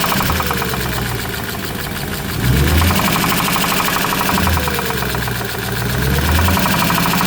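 Audi A8's 3.7-litre V8 engine running with a rapid knock, rising in revs twice and dropping back.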